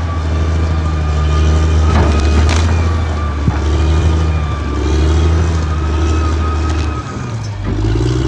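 Caterpillar D6R XL bulldozer's diesel engine running steadily under load, with a thin steady whine above it and a few sharp knocks. The engine note dips briefly near the end, then picks up again.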